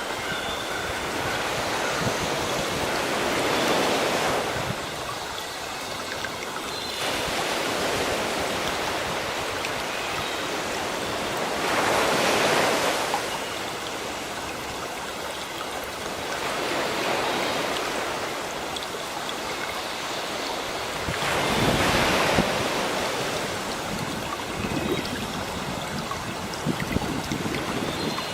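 Sea waves washing onto a shore, the surf swelling and ebbing with a louder surge about every four to five seconds, and faint bird chirps behind it.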